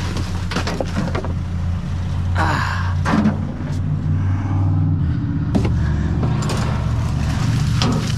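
Vehicle engine idling with a steady low hum, overlaid by scattered knocks and clatter of scrap items being handled.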